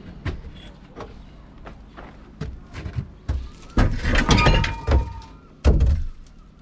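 Knocks, bumps and clatter of gear being handled and pulled out of a small sailboat's cabin. It gets louder about four seconds in with a burst of knocking and scraping, then one heavy thump near the end.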